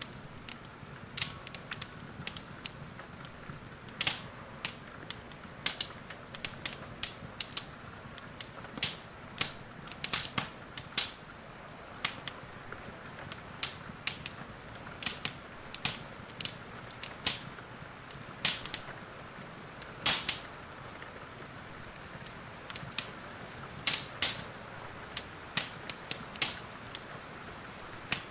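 Wood fire in a fireplace crackling: sharp, irregular pops and snaps, a few every second or two and some louder than others, over a steady soft hiss.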